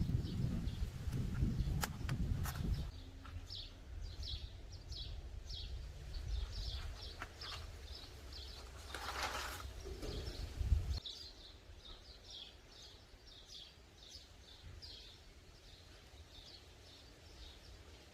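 A small bird chirping over and over, a short call about every half second. A low rumble runs under it for the first few seconds and again around ten seconds in.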